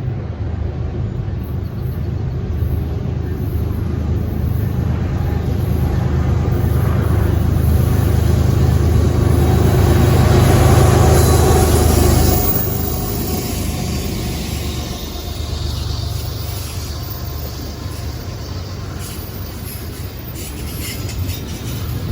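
Diesel freight locomotives approaching and passing close by, their engine drone growing louder to a peak about twelve seconds in and then dropping off suddenly, followed by the train's cars rolling past.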